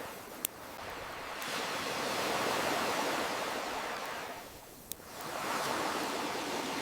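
Ocean surf washing in and drawing back, swelling about two seconds in and again near the end. Two sharp pops of a crackling campfire, one just after the start and one about five seconds in.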